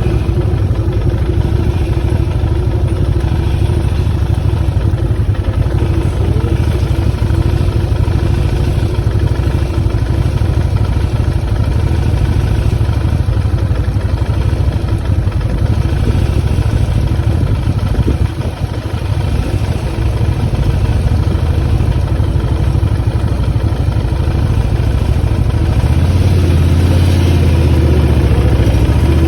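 Motorcycle engine running with a steady low drone that grows louder near the end.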